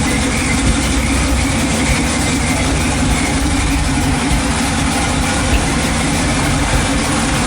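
Vehicle engine running steadily, with an even rush of wind noise over it.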